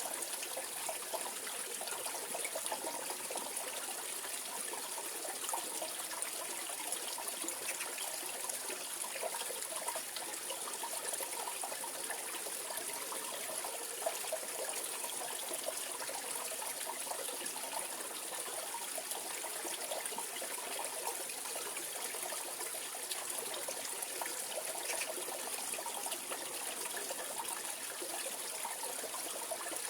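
Mountain valley stream running steadily, a continuous trickling rush of water.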